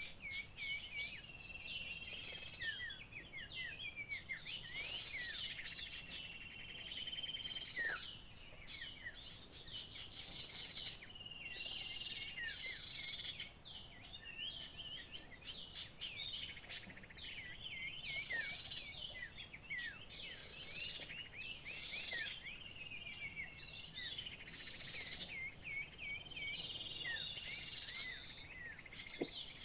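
Small birds chirping and calling without pause, many quick rising and falling notes, over a steady high insect-like buzz.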